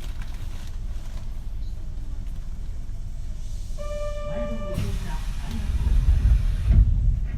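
Kintetsu 3220-series electric train heard from inside the car: a steady low running rumble. About four seconds in, a short steady electronic beep tone sounds, then hiss sets in and the low rumble grows louder.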